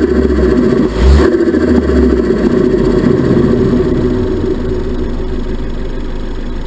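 Ford Focus ST Mk3's turbocharged engine given a short throttle blip about a second in, then settling into a steady idle.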